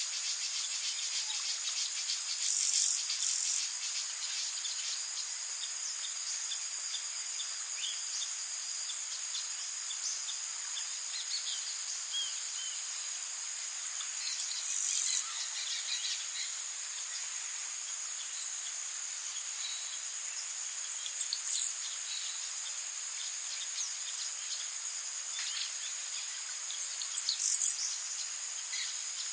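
Tropical rainforest insect chorus: a steady, high-pitched drone of crickets and other insects with scattered bird chirps. Short, louder high buzzes break through four times.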